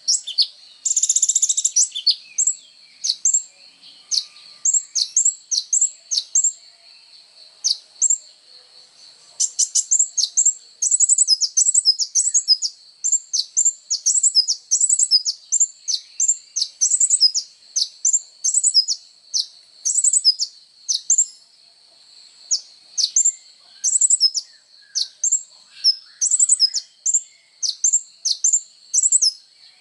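Kolibri ninja sunbird singing: a long run of sharp, high chirping notes, several a second, thinning briefly for a few seconds before picking up again.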